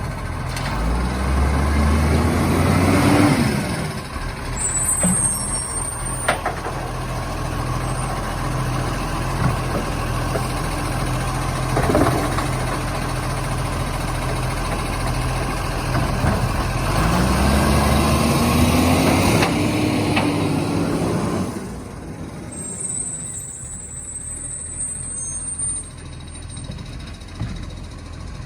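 Garbage truck's diesel engine running and revving up twice, its pitch rising each time, with a few sharp clicks and brief high-pitched sounds. It settles to a lower, quieter run about three-quarters of the way through.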